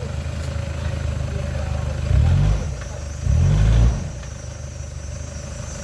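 Off-road 4x4 vehicle's engine running low, revved up briefly twice, about two seconds in and again just after three seconds.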